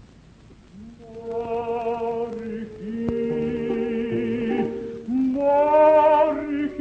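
Operatic singing with orchestra: several voices hold long notes with vibrato, entering after a quiet first second and swelling to a louder, higher held note about five seconds in.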